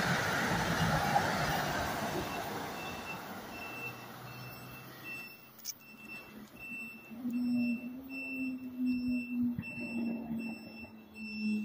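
NJ Transit Arrow III electric multiple-unit train rushing past and receding, its wheel and rolling noise fading away over the first few seconds. As it dies down, an electronic beep repeats about twice a second, and a low steady hum joins later.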